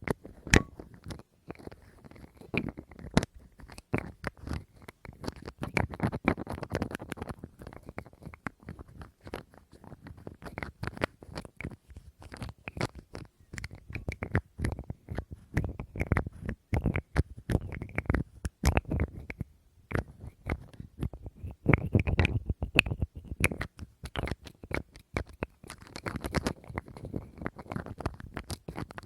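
Close-miked ASMR tapping and handling of a small object: rapid, irregular taps and clicks with some scratching between them.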